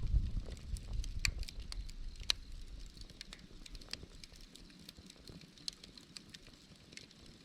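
Wood campfire crackling, with irregular sharp pops. A low rumble under it fades out about three seconds in.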